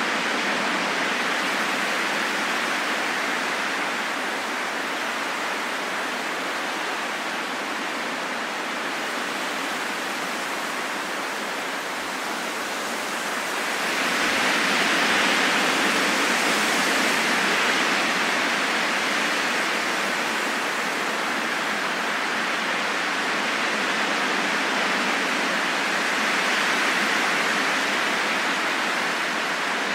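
Steady rain falling in a forest, a dense even hiss that swells a little louder about halfway through.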